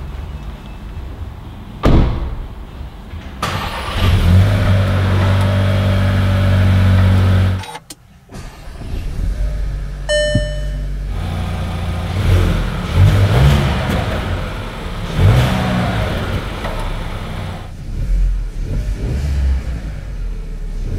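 A Seat Tarraco's 1.5 TSI turbocharged four-cylinder petrol engine. A car door shuts with a thud about two seconds in, then the engine starts and runs steadily. A short electronic chime sounds about halfway through, and the engine is blipped up in revs several times before settling back to idle.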